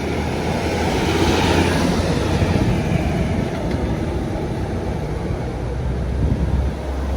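A road vehicle passing, its engine rumble steady underneath and its engine and tyre noise swelling about a second in before easing off.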